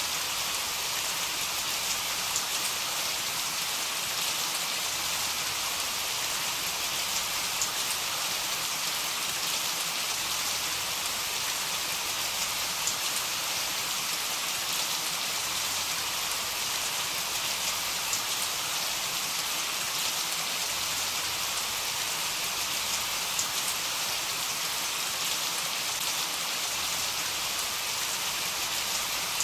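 Heavy rain falling steadily, an even hiss with scattered drop ticks and no thunder.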